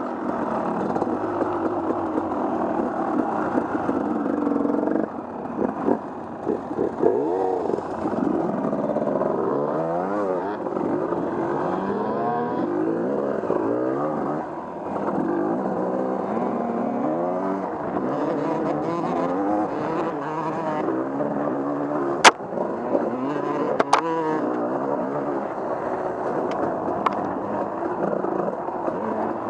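Off-road vehicle engine being worked over a trail, its pitch rising and falling constantly with the throttle. Two sharp knocks come about three-quarters of the way through.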